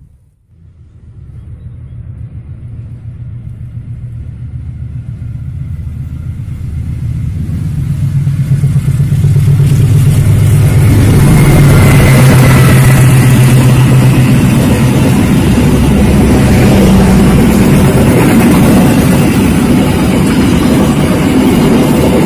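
Diesel-electric locomotive hauling a passenger train, approaching and passing close by: its engine drone grows steadily louder over about ten seconds, then the coaches' wheels keep rumbling over the rails as the train goes past.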